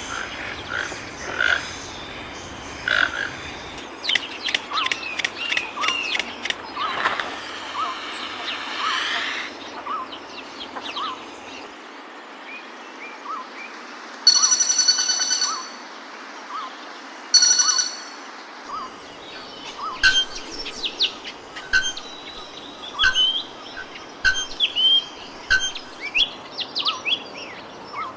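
Several birds calling in a mixed chorus of chirps and whistled notes. A short note repeats about once a second through the middle, and a loud held call sounds twice, around 14 and 17 seconds in.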